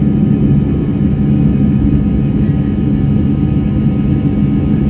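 Airbus A319's twin CFM56 turbofan engines at takeoff power: a loud, steady rumble with several steady whining tones over it.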